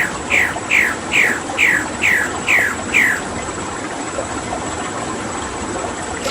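A bird calling a quick run of about eight falling notes, two or three a second, that stops about halfway through, over a steady background of running water.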